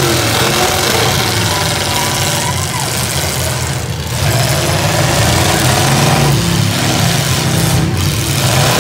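Several full-size demolition derby cars' engines running and revving together, a loud steady rumble.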